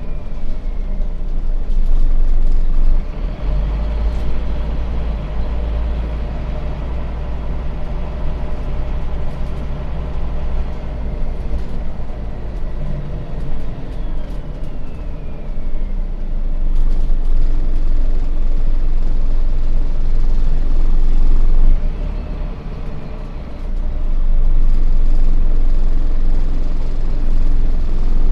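Scania bus diesel engine heard from inside the passenger cabin while driving: a low drone that grows louder under acceleration three times and drops back in between, with a whine that falls in pitch as it slows.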